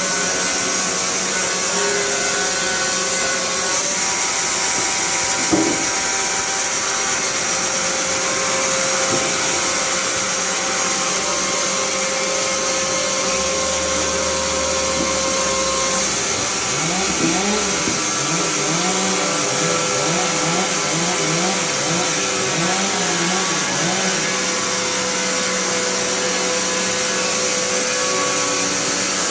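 Semi-automatic log sawmill running and cutting, a steady mechanical whine over an even rushing noise. A single knock comes about five seconds in, and a wavering, rising-and-falling tone comes through in the middle.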